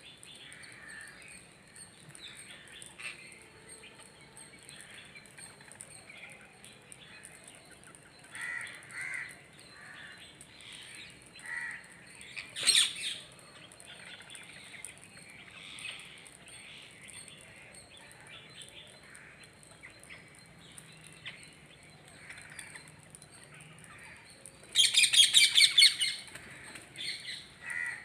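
Birds at a feeding spot calling and chirping, with short calls every second or so. A single loud call comes about halfway, and a loud rapid burst of calls lasting about a second comes near the end.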